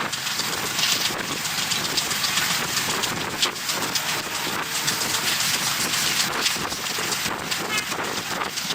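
Passenger train running at speed, wheels clattering on the rails and the carriage rattling, with wind rushing over the microphone.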